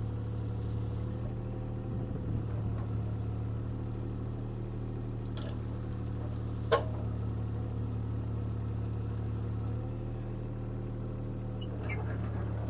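CAT 303C CR mini excavator's diesel engine running steadily while the machine works, with one sharp crack a little over halfway through.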